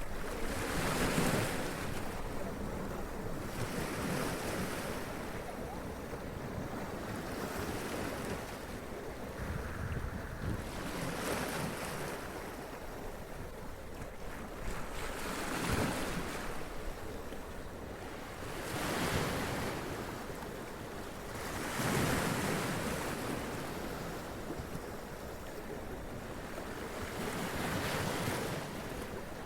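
Sea waves washing up onto rocks, breaking in surges every few seconds over a steady wash of surf.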